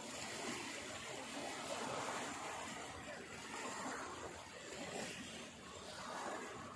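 Water washing and splashing in uneven surges that swell and fade every second or two.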